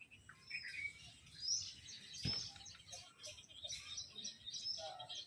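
Faint, scattered chirps and short calls of parrots, with a single sharp click a little over two seconds in.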